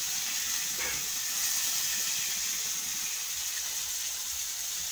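Fish frying in oil in a small pan on a gas burner: a steady sizzle.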